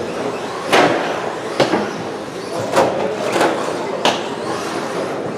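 Electric 1/10-scale RC race trucks with 13.5-turn brushless motors running on an indoor carpet off-road track, a steady hum of motors and tyres broken by about five sharp knocks as trucks land and hit the track.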